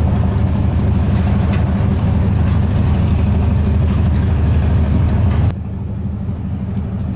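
Engine running steadily with a low, even drone. About five and a half seconds in, the level drops abruptly and the same low drone continues, quieter.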